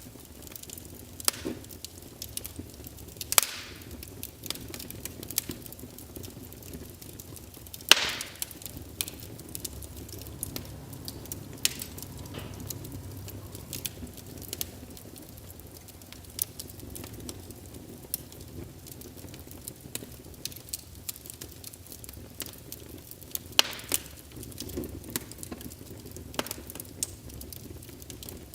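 Wood fire in a fireplace crackling: a low steady rustle of burning under frequent sharp pops, the loudest about 3, 8 and 24 seconds in.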